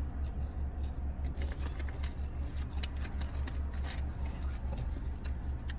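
Crunchy chewing and small crackling clicks from someone biting into and eating a hot Cheeto-coated Korean corn dog. A steady low rumble runs underneath.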